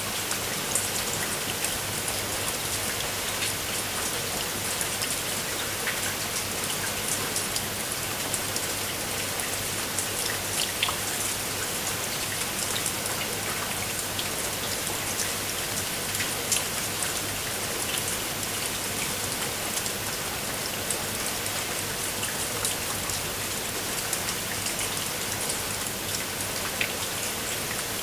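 Steady rain falling on a surface, with many separate drops ticking and spattering through a constant hiss.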